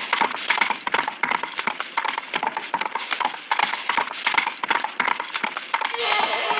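Rapid, irregular clattering clicks, several a second, used as a cartoon sound effect. A brighter, steadier sound comes in near the end.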